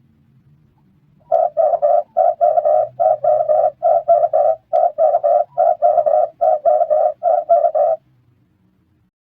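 Red turtle dove calling: a rapid series of short, throaty coos in quick groups of three or four, repeated for about seven seconds before stopping.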